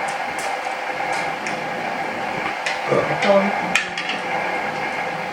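Dishes and cutlery clinking in a scatter of light knocks, with faint voices in the room.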